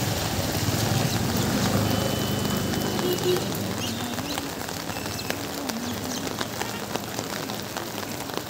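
Steady rain falling on a wet street, with many small scattered drop hits, and a low hum in the first few seconds.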